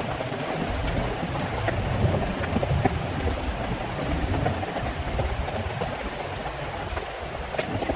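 Heavy rain falling steadily, with many small drop impacts and a low rumble underneath.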